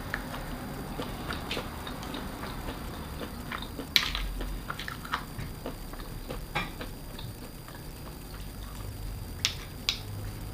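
Close-up eating sounds: chewing with many small clicks and taps, the sharpest about four seconds in and two quick ones near the end.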